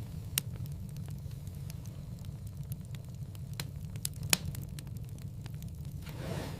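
Wood fire crackling in a fireplace: a steady low rumble of flames with scattered sharp pops and snaps, the loudest about four seconds in.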